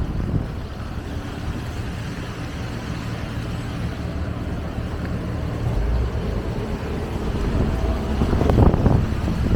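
Low rumble of city street traffic, growing louder as a vehicle passes close a little before the end.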